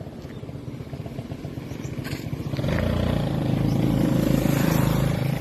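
A motor vehicle's engine running, which gets much louder about two and a half seconds in and stays loud.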